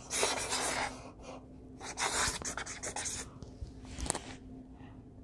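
A drawing tool scratching across paper in two spells of about a second each, with a short tap a little after the second, as leaves are drawn on a tree sketch.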